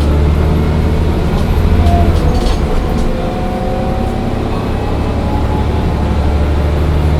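Mercedes-Benz O405 N1 city bus's six-cylinder diesel engine running under way, a steady low drone that swells about two seconds in and then eases, with a faint whine above it and a few light clicks.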